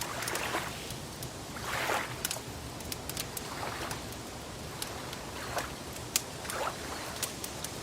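Wood fire crackling, with sharp pops scattered throughout and the loudest about six seconds in, over gentle lake water lapping in soft swells every second or two.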